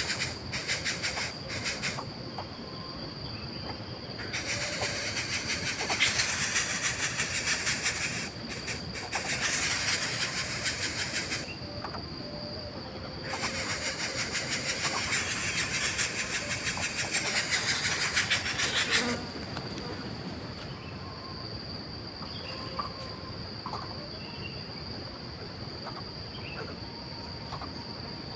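Insects buzzing: loud, fast-pulsing rasping bursts of a few seconds each, four times, over a steady high-pitched whine.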